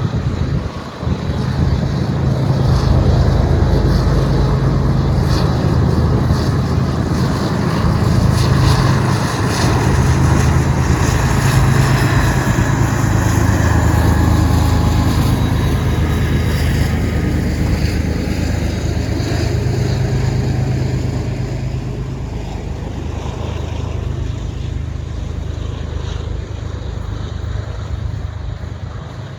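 Diesel freight locomotive passing with its engine running in a loud, steady low drone, then slowly fading in the last third. Sharp clicks of steel wheels on the rails are mixed in.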